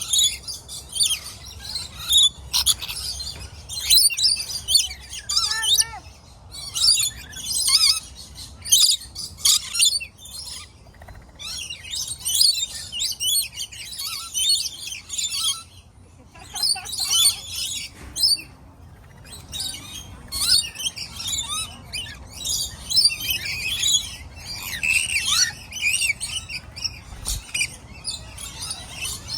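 A flock of aviary birds chirping and chattering, many at once, in dense clusters of high chirps with brief lulls.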